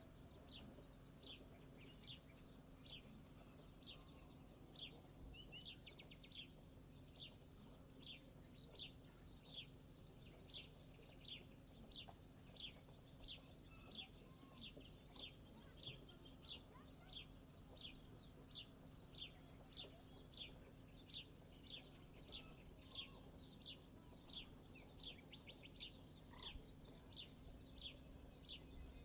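A bird repeating one short, falling chirp over and over, about one and a half times a second, faint, over a low steady hum.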